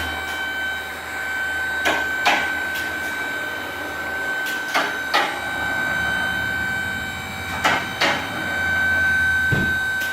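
A machine running with a steady high whine and a low hum, with pairs of sharp clicks or knocks every few seconds.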